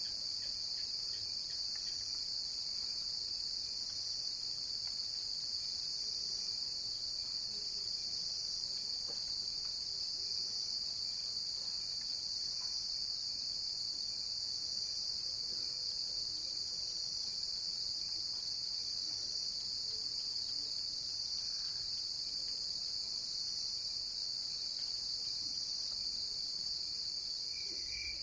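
Crickets chirping in a dense, unbroken high-pitched chorus that holds steady throughout.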